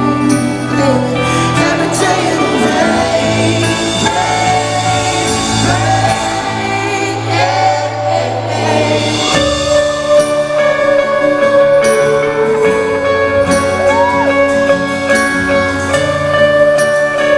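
Live band playing a slow soul-pop ballad, with a male singer's voice gliding between and holding long notes over a steady bass line; the accompaniment shifts about nine seconds in.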